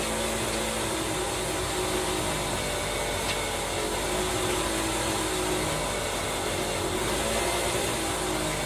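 Steady mechanical whirr of a running motor, holding an even tone with no breaks.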